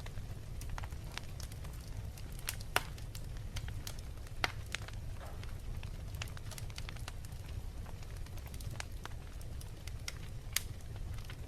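Wood fire in a fireplace crackling, with scattered small snaps and a few louder pops (about three seconds in, about four and a half seconds in, and near the end) over a steady low rumble.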